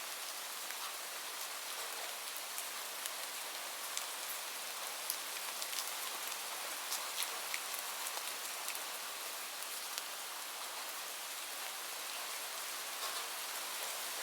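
Steady rainfall: an even hiss of rain with scattered sharp ticks of single drops or crackles.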